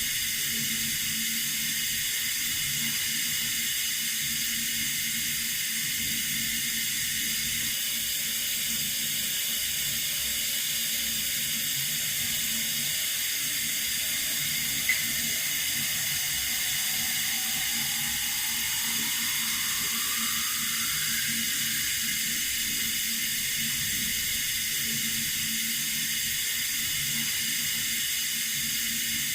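Running water, a steady even hiss, with a single short click about halfway through.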